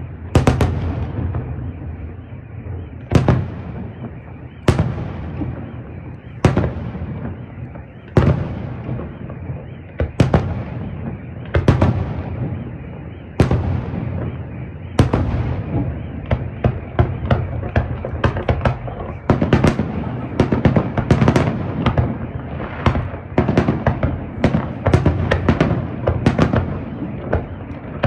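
Fireworks display, aerial shells bursting overhead. Single loud bangs come roughly every second and a half, and about halfway through they give way to a dense run of rapid bangs and crackling.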